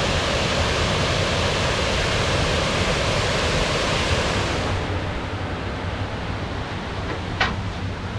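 Water rushing over a dam, a loud steady rush that turns duller about five seconds in. A short sharp click comes near the end.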